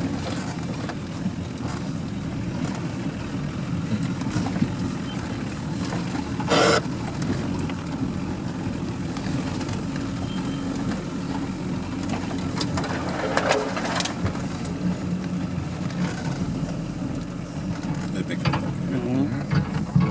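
Vehicle engine running steadily, with a few short knocks and rattles on top, the loudest about six and a half seconds in.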